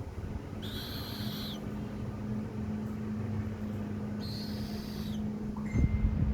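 Falcon chick giving two long, high screeching calls about a second each, a few seconds apart, over a steady low hum. A few low thumps near the end.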